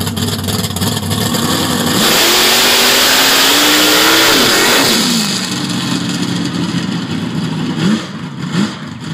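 Twin-turbo V8 of a BA Falcon drag car launching hard with wheelspin: after about two seconds of a steady engine note, a loud rush of noise comes in as the revs climb for about two seconds, then fall away. The engine settles to a steadier lower note, with two short throttle blips near the end.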